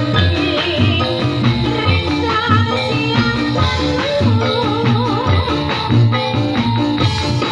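Live Topeng Ireng dance music: a driving drum and percussion beat with a wavering melody line over it, played continuously.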